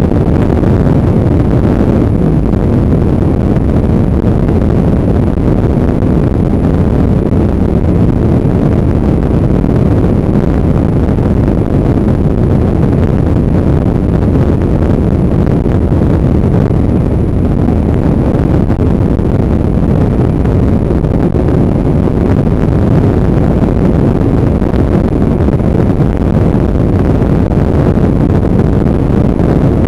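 Steady, loud wind rumble on the microphone of a motorbike under way, mixed with the bike's engine and road noise.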